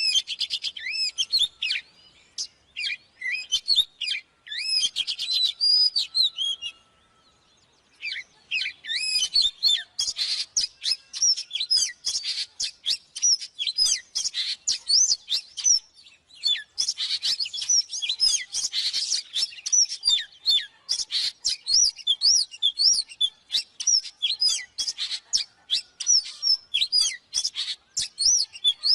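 Oriental magpie-robin singing a long, varied song of clear whistled phrases mixed with rapid buzzy trills, with a short pause about seven seconds in.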